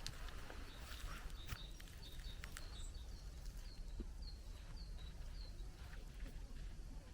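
A small bird calling a series of short, high, descending chirps, about two a second, for roughly three seconds. A few footsteps on the path come before it, over a steady low rumble.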